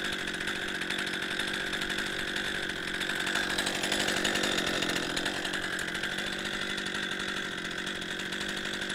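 Two-stroke chainsaw mounted in a chainsaw mill, running steadily at high revs while ripping a plank lengthwise through a log with a freshly sharpened chain. It swells slightly about midway through.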